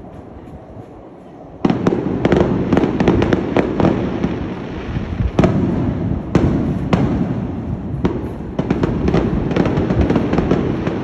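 Fireworks going off in a rapid barrage of bangs and crackles that starts suddenly about one and a half seconds in, with a few louder booms midway.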